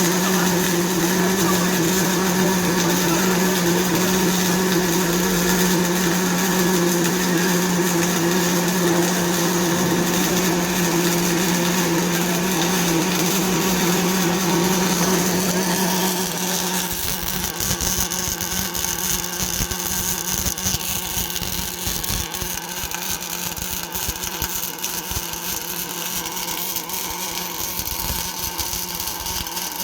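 Automatic double-torch arc welding machine welding a cast iron pulley: a steady crackling sizzle, with a constant hum that stops about 16 seconds in while the crackle goes on.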